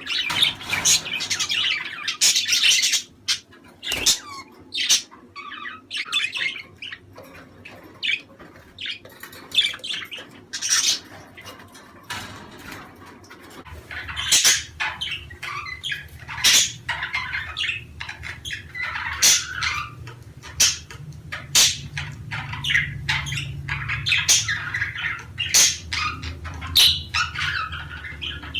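Budgerigars chattering, with a run of short chirps and harsh squawks at irregular intervals; this is the kind of flock chatter played to pet budgies to stimulate breeding.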